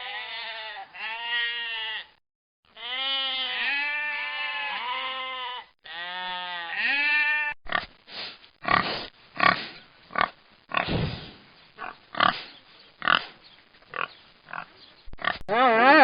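Pig grunting: a series of short, rough grunts at about one to two a second through the second half. Before that, a run of clear, pitched animal calls that rise and fall in pitch.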